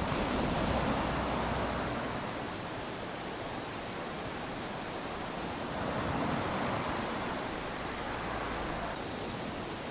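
Small waves lapping onto a sandy beach: a steady hiss of surf that swells twice as a wave washes in, near the start and again about six seconds in.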